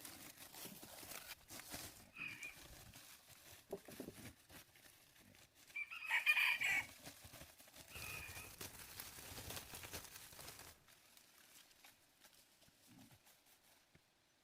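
A chicken calling: one loud call about a second long near the middle, with a short, fainter call a few seconds before and after it, over faint rustling.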